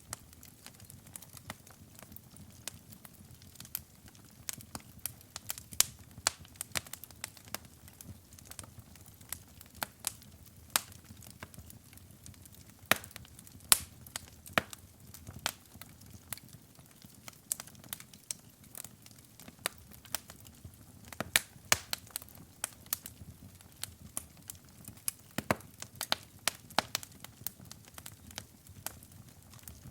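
Wood fire burning in a fireplace, crackling with frequent irregular sharp pops over a soft low rumble of the flames.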